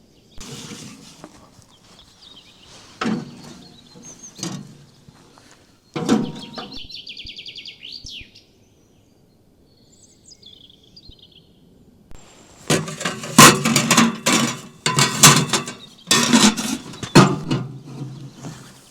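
Songbirds trilling in fast, high runs, with a few single knocks. After a short quiet spell, a run of loud knocks and clatter fills the last six seconds.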